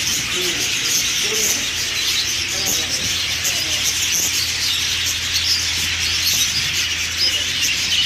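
Dense chorus of many small caged birds chirping and tweeting at once, a steady high din.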